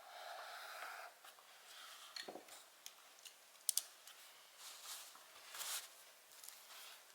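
Faint scattered clicks, a quick double one in the middle, and a few soft rustling swishes, after a brief soft hum in the first second.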